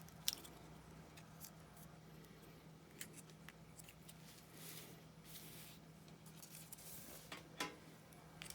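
Faint handling of cardstock: small scored paper pieces being folded and creased, with a few light clicks and soft rustles over a low steady hum.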